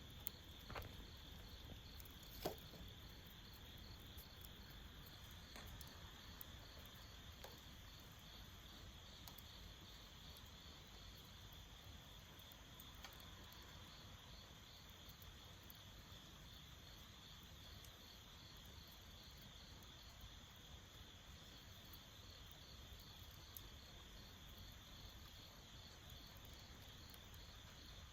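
Crickets chirping steadily in a fast, even pulse, with a couple of sharp pops from the burning hardwood fire in the first few seconds.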